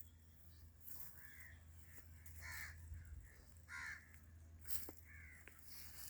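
Birds giving short, repeated calls, about four of them spaced roughly a second apart, faint over a steady low hum.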